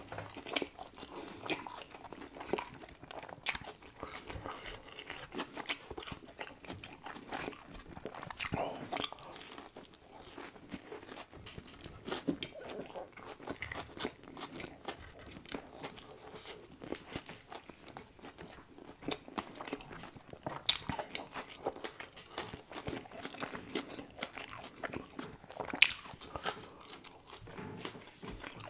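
Close-miked chewing of a Popeyes fried chicken sandwich, the crisp breading crackling and crunching with each bite, with a couple of sharper crunches in the last ten seconds.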